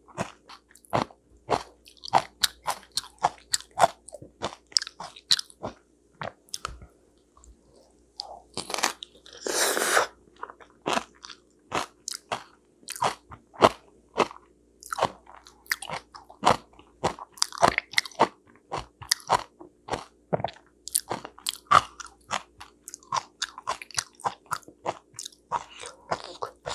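Close-miked chewing of steamed sweet potato: a fast run of sharp mouth clicks and smacks, with a short lull about six seconds in and a longer, noisier smack near ten seconds.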